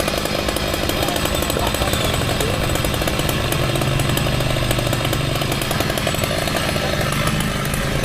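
Two-stroke chainsaw running at high revs, cutting steadily through mahogany wood.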